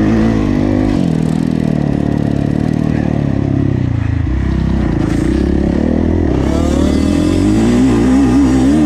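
Kawasaki KX450F motocross bike's single-cylinder four-stroke engine running hard under changing throttle, its pitch rising and falling, with a climb in revs near the end.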